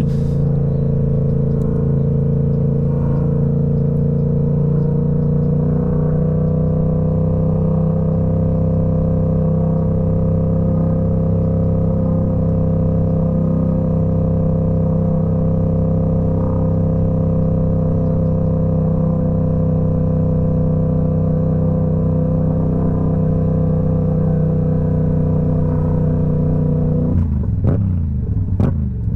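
Motorcycle engine running at a steady, held engine speed while riding, with a slight rise in pitch in the first few seconds. Near the end the engine note drops sharply.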